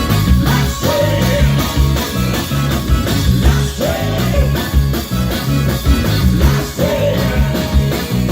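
Live blues-rock band playing at full volume: a steady drum beat and a repeating bass line under a bending melodic phrase that recurs about every three seconds.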